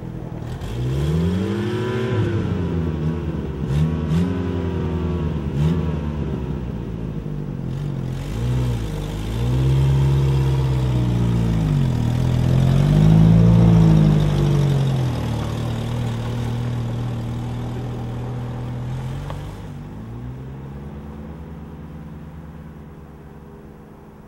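Toyota pickup engine revved up and down several times, then settling to a steady idle that fades near the end, with a few sharp clicks early on. It sounds good for a truck that has sat unused for almost two years.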